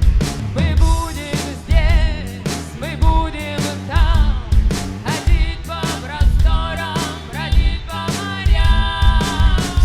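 Rock band playing: a steady heavy drum and bass beat under a wavering melodic line.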